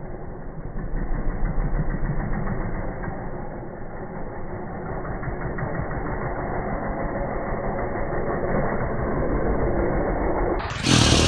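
Dirt bike engine running steadily. Near the end the sound cuts abruptly to a louder, brighter engine noise.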